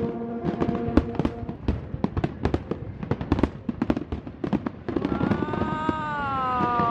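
Fireworks going off in quick succession, a dense run of sharp pops and crackles. From about five seconds in, a long drawn-out tone that slowly falls in pitch joins them.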